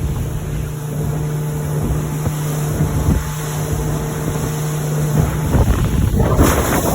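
Yamaha F60 four-stroke outboard running steadily as the boat heads into the waves, a steady hum under wind buffeting the microphone. About five seconds in, a louder rush of wind and water noise covers the engine.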